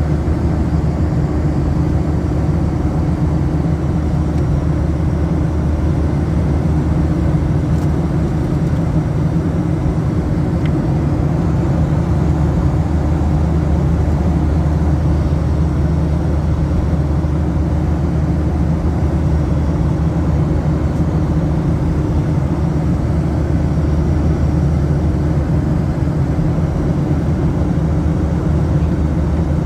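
Steady drone inside the cabin of a Boeing 737-800 in flight: the CFM56-7B engines and airflow make an unchanging low hum over a constant rush of air.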